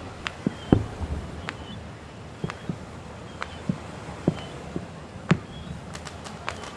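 Fireworks going off at irregular intervals: a mix of dull low booms and sharp high cracks, the loudest boom under a second in. A quick run of crackling pops comes near the end.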